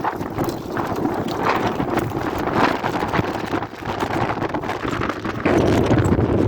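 Strong wind buffeting the microphone: a loud, uneven gusting rumble that grows louder about five and a half seconds in.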